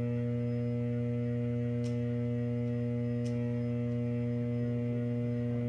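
Substation voltage transformer on the Y phase of transformer bay T703 humming steadily, a loud mains hum with a stack of evenly spaced overtones. The hum is the abnormal sound and excess vibration being reported on this unit. Two faint ticks come about two and three seconds in.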